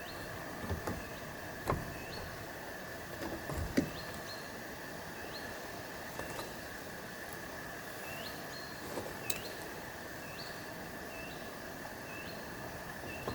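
A small bird calling repeatedly, a short rising note about once a second, over a steady outdoor hiss, with a few sharp knocks, the loudest about four seconds in.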